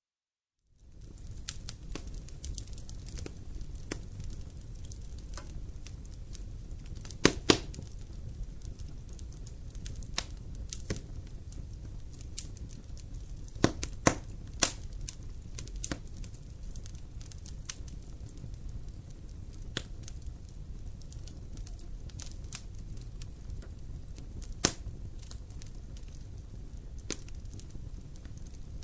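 Wood fire in a fireplace crackling, over a low steady rumble of the flames, with scattered sharp pops, the loudest a pair about 7 seconds in and another pair about 14 seconds in. The fire sound comes in about a second in, after a moment of silence.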